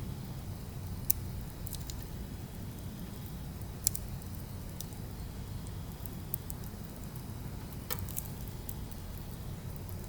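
Burning firewood crackling, with a few sharp pops spread through, over a steady low rumble.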